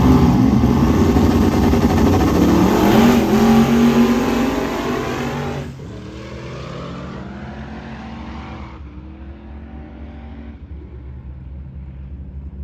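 Drag race car engines at full throttle, their pitch rising as they accelerate. About halfway through the level drops abruptly to a fainter engine note that falls in pitch.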